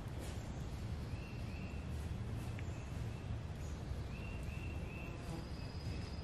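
Quiet woodland ambience: faint bird chirps in short runs of two or three, over a low steady rumble.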